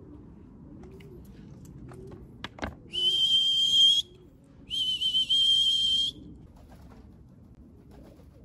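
Two long, steady, high-pitched whistle blasts about a second apart, each lasting roughly a second, blown to call racing pigeons down into the loft. Pigeons coo softly underneath, and a short knock sounds just before the first blast.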